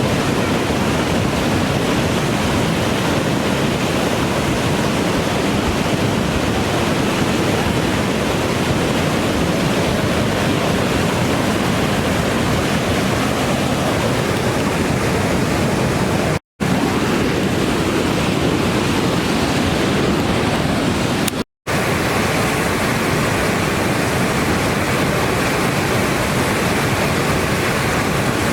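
Steady rush of a river in flood: a loud, even roar of fast water. It breaks off for an instant twice, about sixteen and twenty-one seconds in, and comes back slightly duller after the second break.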